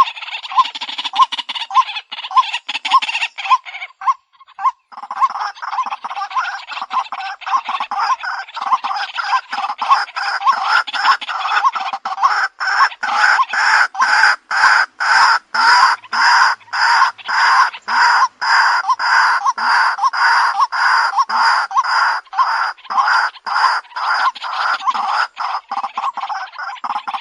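White-breasted waterhen calling: one note repeated over and over, about two to three times a second, with a short break about four seconds in. This is the bird's repetitive call, played as a lure call.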